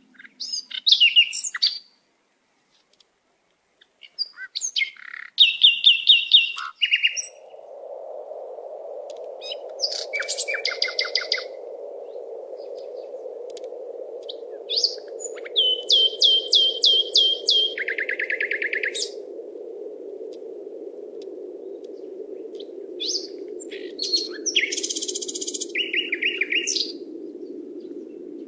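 Songbirds singing: short phrases of quick repeated chirps and trills, with a brief silent gap about two seconds in. From about seven seconds in a steady low rushing drone runs underneath, slowly dropping in pitch.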